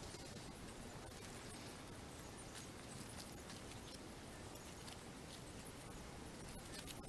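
Campfire crackling faintly, with scattered small crackles and pops over a steady low hiss.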